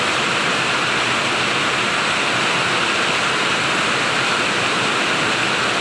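Heavy rain falling steadily, an even, loud hiss of rainfall.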